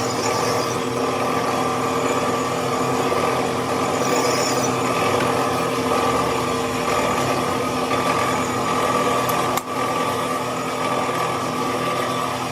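A workshop machine's motor running steadily, a constant hum over a hiss, with a brief dip about ten seconds in.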